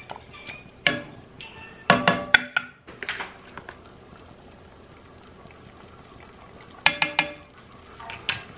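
Kitchen utensils clinking against a stainless steel saucepan, a few sharp metallic clanks that ring briefly. They come in short clusters about a second in, around two seconds in and again near the end, with a quiet stretch between.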